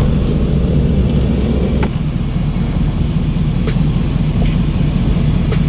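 A motor vehicle driving: a steady low engine and road drone that eases slightly about two seconds in.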